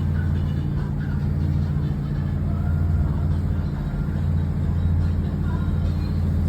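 An engine running with a steady low drone, with faint voices over it.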